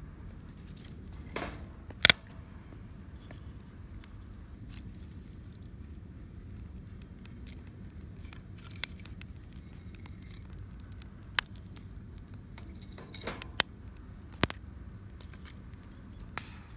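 Wood campfire crackling, with sharp pops at irregular intervals, the loudest about two seconds in.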